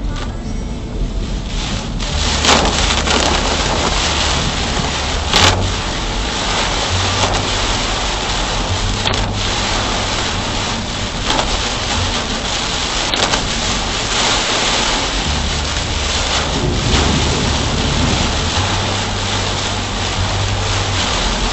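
Heavy rain on a moving car at expressway speed, a steady hiss of rain and wet-road tyre noise over a low rumble, with a few brief knocks, the loudest about two and a half and five and a half seconds in.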